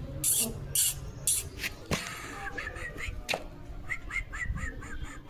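Short, quick bird calls, about five a second, in the second half, after several scratchy rustling bursts and two sharp clicks.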